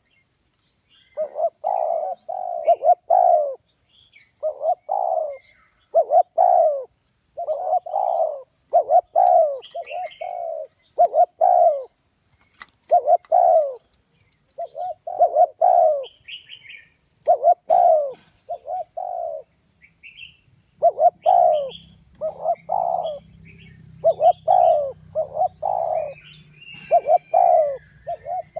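Spotted dove cooing: phrase after phrase of two to four low coos, with short pauses between phrases. Faint high chirps of other small birds come between the phrases.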